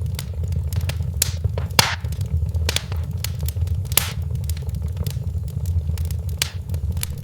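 Wood fire in a fireplace crackling, with sharp, irregular pops over a steady low rumble; the strongest pops come about two and four seconds in.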